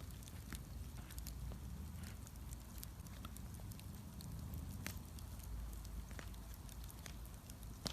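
Bonfire burning, crackling with scattered sharp pops over a low steady rumble; one louder pop near the end.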